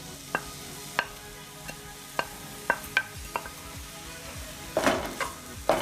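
Chopped onions sizzling steadily in hot coconut oil in a pan, with a spoon clinking against the pan several times and a louder stirring scrape about five seconds in.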